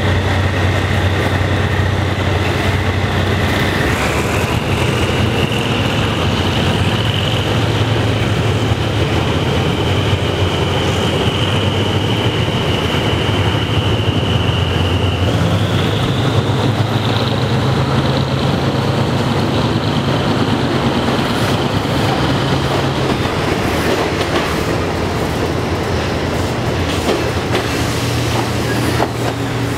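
Train of ex-JR West passenger coaches rolling past, a steady low rumble from the running gear. Over it a high whine steps up in pitch about four seconds in and again about fifteen seconds in.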